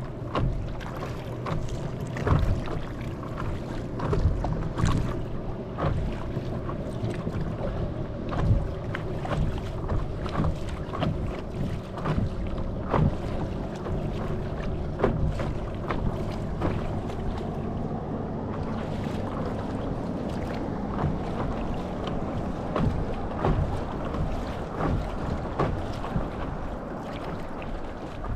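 Steady drone of a large motorboat's engine passing on the lake, with wind on the microphone and frequent short water splashes against the paddle board.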